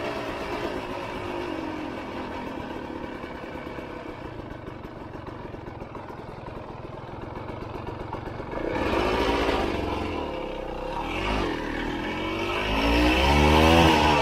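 Honda CRM250's two-stroke single-cylinder engine running at low revs, then revving up hard about two-thirds of the way through. It eases briefly and climbs again to its loudest near the end as the bike accelerates.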